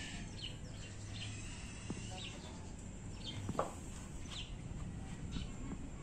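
Small birds chirping in the background, short high chirps roughly once a second, over a low steady hum. One short rising sound stands out a little past halfway.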